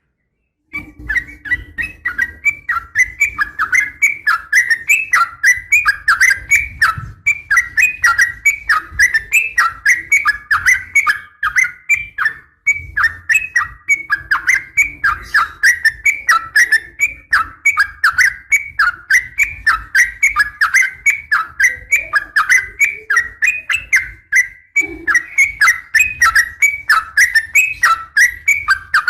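Yellow-vented bulbul (trucukan) calling in a rapid, continuous run of short falling chirps, about three or four a second, starting about a second in. The uploader presents it as a female's call to a male, used to provoke males to sing.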